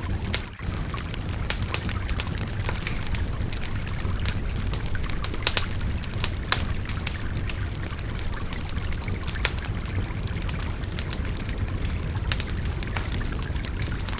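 Wood fire crackling with frequent irregular pops and snaps over a steady babbling river, with a brief dip about half a second in.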